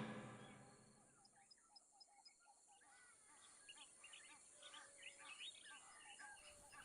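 Soundtrack music fading out, then a faint chorus of short, repeated chirping calls from night animals, growing busier after a few seconds, over a thin steady high-pitched tone.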